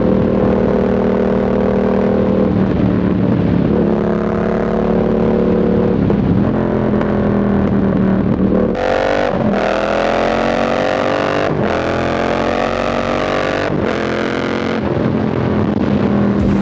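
Yamaha MT-07's parallel-twin engine heard from the rider's seat, running at a steady cruise, then accelerating from about nine seconds in. The revs climb in three runs, each cut by a brief break at an upshift, before the engine settles back to a steady cruise near the end.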